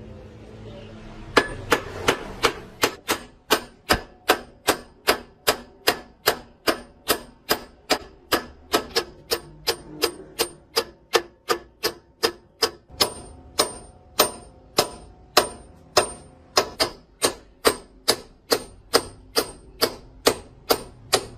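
A hammer striking metal repeatedly, a steady rhythm of about two ringing blows a second that starts about a second and a half in.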